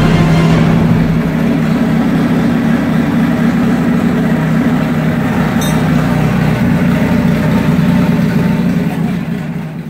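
Toyota 3S-GE 2.0-litre four-cylinder engine of a custom off-road buggy running steadily with no revving, fading out near the end.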